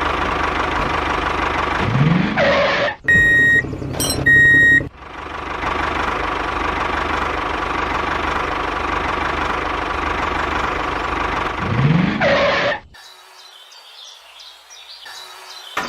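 Mini tractor engine running steadily, broken a few seconds in by two short high horn beeps, then running on until it cuts off abruptly near the end.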